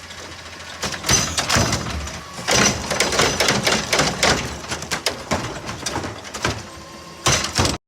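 Repeated clattering knocks and bangs, irregular and loudest in the middle, cutting off suddenly near the end.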